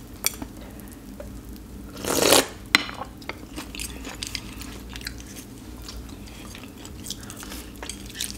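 Close-up chewing of spicy ramen noodles topped with Hot Cheetos, many small crisp crunches and clicks. A louder, noisy half-second sound comes about two seconds in, followed by a single sharp click.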